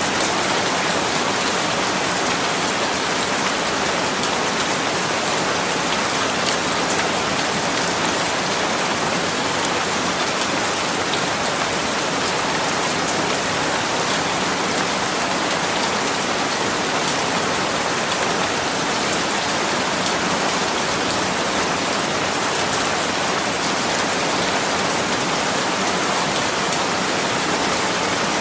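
Steady rain falling and pattering on surfaces, with scattered drop ticks.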